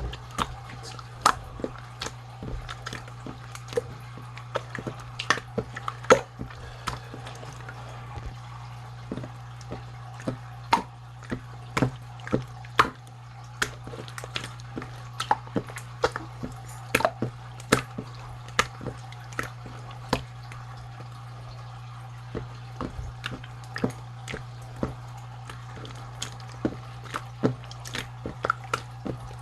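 Slime being worked by hand, giving irregular wet clicks, pops and squishes, a few a second, over a steady low hum.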